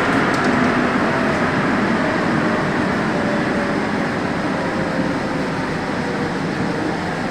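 Santiago Metro NS-74 rubber-tyred train running, a steady rolling rumble with a faint motor whine that slowly falls in pitch as the sound eases off a little.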